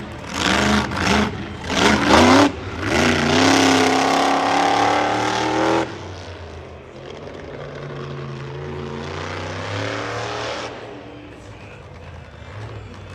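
Monster truck engine revving hard in short bursts, then held in a long rising rev that cuts off suddenly about six seconds in. After that it runs lower and steadier, fading somewhat near the end.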